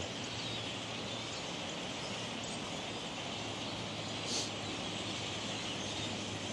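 A large flock of birds overhead, a steady mass of faint chatter and calls, with one brief higher call about four seconds in.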